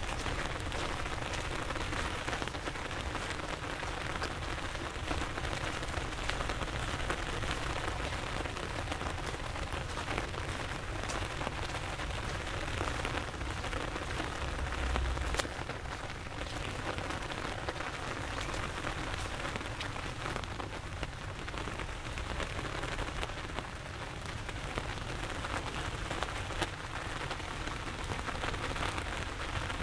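Heavy rain falling and splashing on hard city surfaces: a dense, steady hiss of rain with many sharp ticks of individual drops. A brief low thump comes about halfway through.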